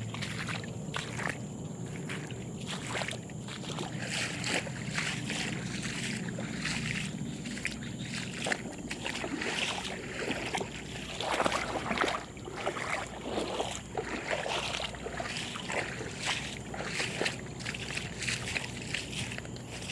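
Floodwater sloshing and splashing in irregular bursts, loudest about halfway through.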